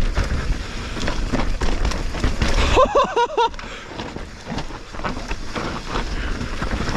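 Mountain bike rolling down a dirt trail: tyres on loose soil and roots, with the bike rattling over bumps and wind buffeting the helmet-mounted microphone. About three seconds in, a brief pitched vocal whoop from the rider.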